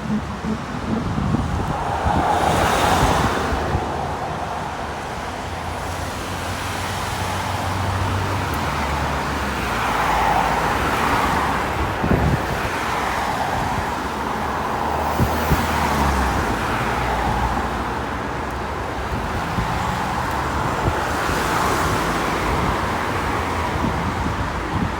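Street traffic with buses and cars passing one after another, about five passes swelling and fading, over a low steady engine hum.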